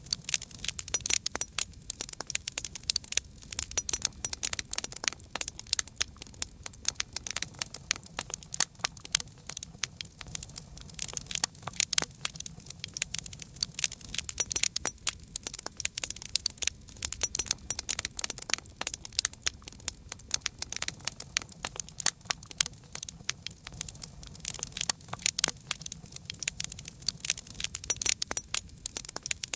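Campfire burning with a dense, irregular crackle of sharp pops and snaps over a soft low rumble of flame.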